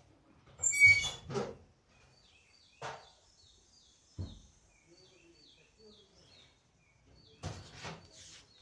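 Small birds chirping in the background, a run of short, faint high chirps repeating every half second or so. A louder brief sound with high tones comes about a second in, and a few dull knocks come later.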